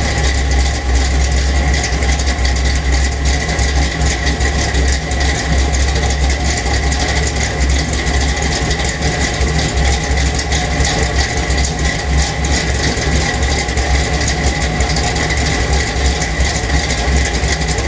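1977 Chevy Silverado K10's 406 small-block V8, with a Crane Energizer 302H cam, Holley 750 double-pumper carburettor and Flowmaster exhaust, idling with a rough, uneven idle. A steady high thin whine sits over the exhaust note.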